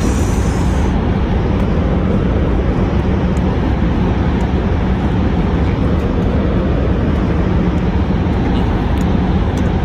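Tohoku Shinkansen train running, heard inside the passenger cabin as a loud, steady rumble and rush of noise. A plastic wrapper crinkles briefly in the first second.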